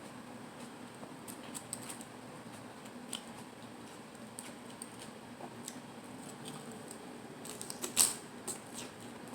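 Close-miked eating of lettuce salad wraps: scattered small crisp crunches and wet mouth clicks, with a quick cluster near the end and one sharp, loud crunch about eight seconds in.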